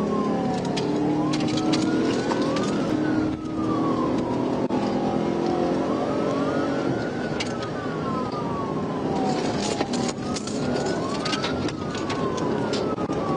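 Police car siren in a slow wail, its pitch rising and falling about every four seconds, over the patrol car's engine running during a pursuit.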